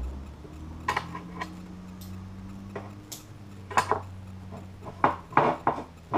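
Scattered light clicks and knocks of hard parts being handled, bunched together near the end, over a low steady hum.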